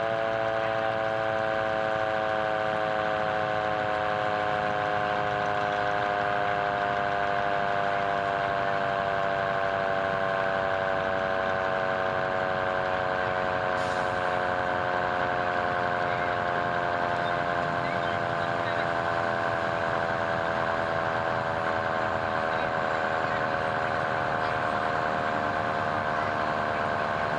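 Fire truck siren sounding a long, steady wail whose pitch slowly falls throughout.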